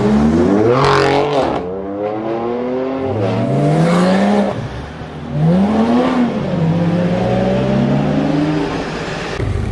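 Lamborghini Huracán LP610-4's V10 engine accelerating hard, its pitch climbing through the revs and dropping back at each gear change, four times over.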